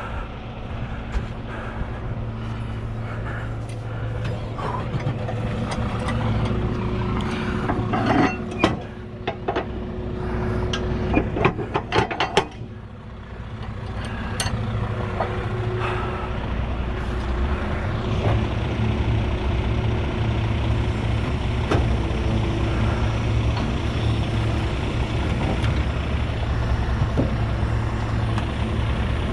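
Diesel engine of a heavy tri-axle dump truck, just started and idling steadily so that its air pressure builds up. There are several sharp metallic knocks and clanks about a third of the way in.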